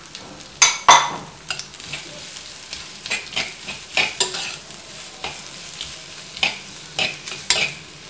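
Sliced onions, green chillies and crushed ginger-garlic frying in hot oil with a steady sizzle, stirred with a steel spoon that scrapes and knocks against the pot every second or so, loudest about a second in.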